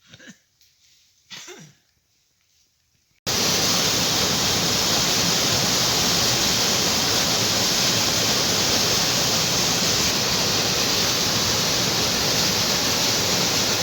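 Waterfall: a loud, steady rush of falling water that starts abruptly about three seconds in, after two faint short sounds.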